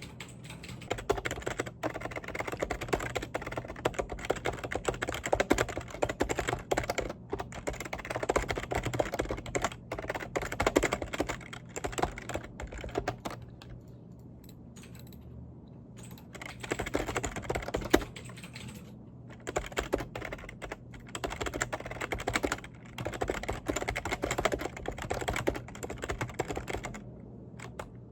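Fast typing on a computer keyboard, dense runs of key clicks in bursts, with a pause of a couple of seconds about halfway through.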